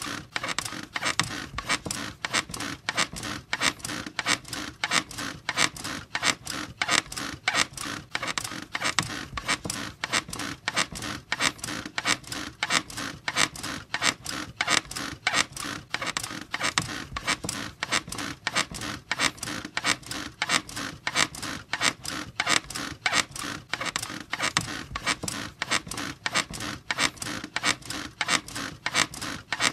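Bed frame squeaking over and over in a fast, even rhythm.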